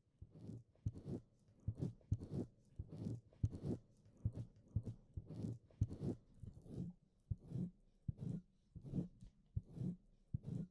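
Wet mouth and tongue licking a 3Dio binaural microphone's ear up close: a steady run of short, wet smacks and crackles, about two to three a second.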